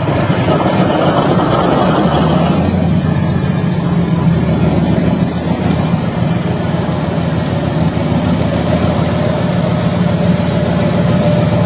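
Used car engine idling steadily.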